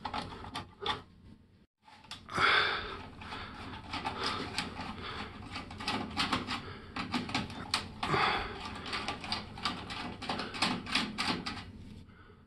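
Irregular clicking and rattling of small hard parts being handled, with a dense run of sharp clicks.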